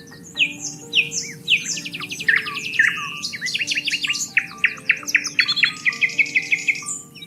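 Several songbirds singing and chirping at once, a dense mix of quick trills, rapid repeated notes and whistled glides, over soft background music of long held notes.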